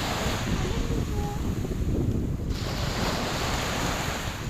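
Waves washing onto the shore, the surf swelling twice, with wind buffeting the microphone.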